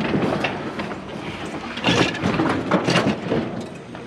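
Scrap metal clanking and scraping as a discarded item is heaved up and over onto a trailer, with a run of sharp knocks and rattles, loudest about two and three seconds in.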